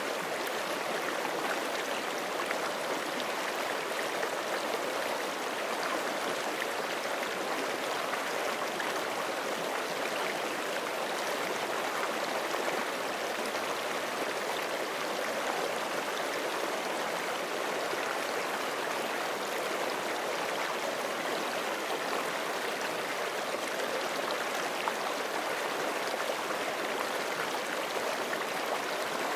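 A forest creek flowing steadily over rocks: an even, continuous rushing and babbling of running water.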